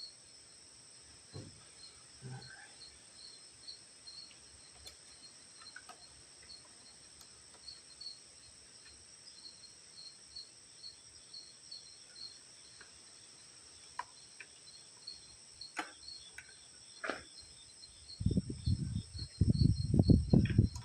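Crickets chirping steadily in a high, pulsing trill, with scattered light clicks and taps from small parts being handled. Near the end, loud irregular low rumbling bursts take over.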